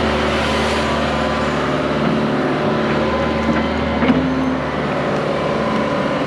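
Excavator's diesel engine running steadily while digging with the bucket, with a brief knock about four seconds in.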